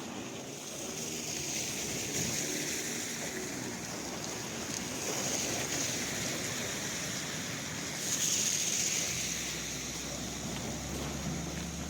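Steady rushing wind noise that swells about eight seconds in, with a low steady hum coming in near the end.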